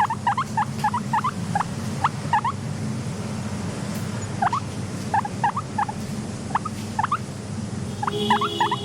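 Guinea pigs squeaking: many short, rising chirps in irregular clusters over a steady low hum. A held tone joins near the end.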